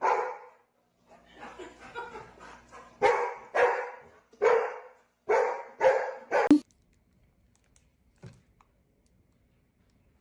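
A dog barking repeatedly in short, loud barks, with a quieter stretch between the first bark and the rest; the barking stops abruptly about six and a half seconds in, and a faint knock follows.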